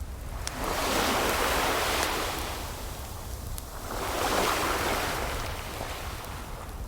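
Ocean waves washing in twice, each surge swelling and fading over a couple of seconds, with the odd crackle and pop of a wood fire between them.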